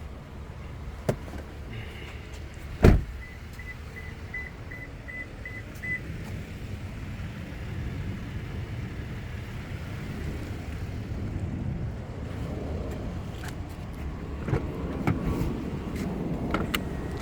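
A 2022 Toyota Tundra being shut down: a click, a loud knock a few seconds in, then a row of about eight short, evenly spaced high beeps from the truck's chime, followed by rumbling and scattered clicks.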